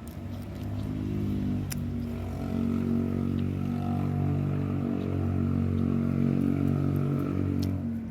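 A motor vehicle's engine running, growing louder about a second in, holding steady, then dropping away near the end, with a single sharp click early on.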